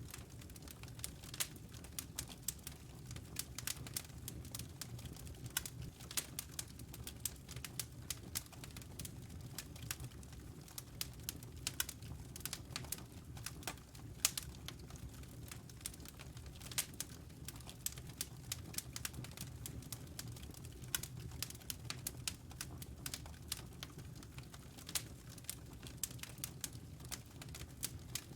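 Wood fire crackling in a fireplace: many sharp, irregular pops and snaps from the burning logs over a low steady rumble of the flames, with one louder pop about fourteen seconds in.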